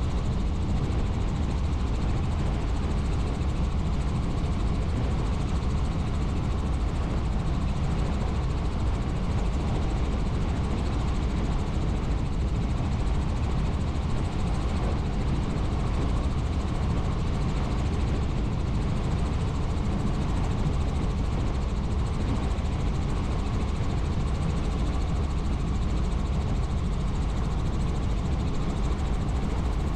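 Helicopter in flight: a steady drone of rotor and engine noise, heaviest in the low end, with no change in pitch or loudness.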